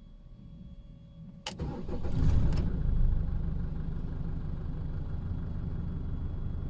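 Car engine cranked by the starter and catching almost at once, starting first time: a click about a second and a half in, a brief flare of revs, then a steady idle.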